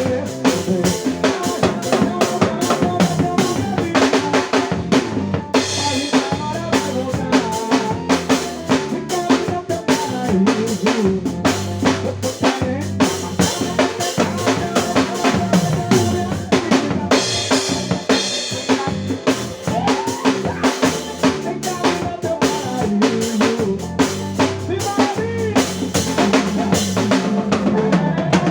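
Drum kit played along to a forró song's recording, with a steady, fast beat of kick, snare and rimshots over the music. Brighter cymbal-like washes come in about six seconds in and again around seventeen seconds.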